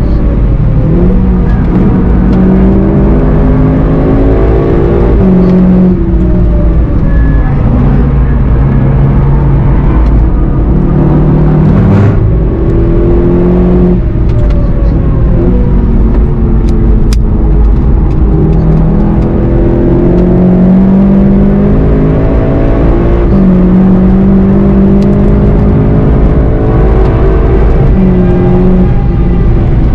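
Cabin sound of a VW Golf 7.5 GTI TCR's 2.0-litre turbocharged four-cylinder accelerating hard. The engine note climbs in pitch and drops back at each upshift, several times, over steady road and tyre rumble.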